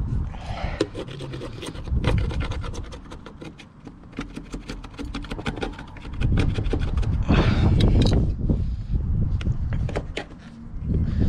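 Rough scraping and rubbing with irregular clicks and knocks as old, perished sealant is scraped off a caravan's outer wall around the water inlet opening. Two longer scraping strokes stand out, one about a second in and a louder one about seven seconds in.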